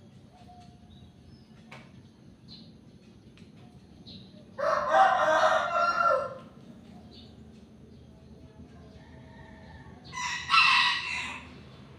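A rooster crowing once about four seconds in, a call of about two seconds, followed near the end by a second, shorter and higher call. Faint short chirps in between.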